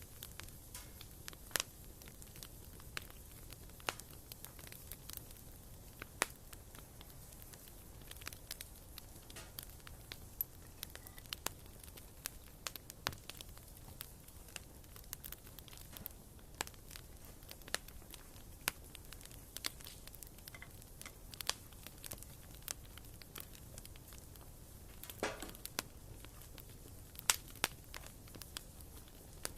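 Wood fire crackling in a fireplace: irregular sharp pops and snaps over a faint steady rush, with a brief flurry of pops and hiss about 25 seconds in.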